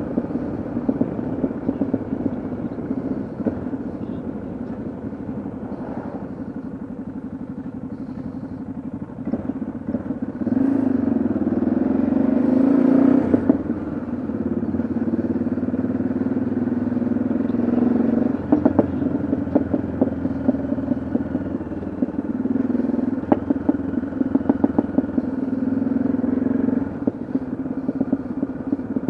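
Yamaha XT660Z Ténéré's single-cylinder engine running on the move. It grows louder about a third of the way in, then eases off briefly twice, about halfway through and again a few seconds later.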